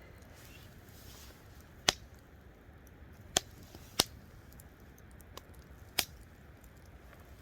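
A few sharp clicks and taps from small objects being handled, spread irregularly over several seconds, over a faint steady low background.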